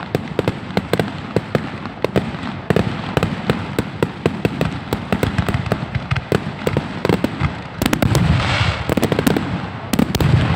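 Fireworks going off in a rapid, irregular string of bangs and crackles, with a rushing hiss about eight seconds in.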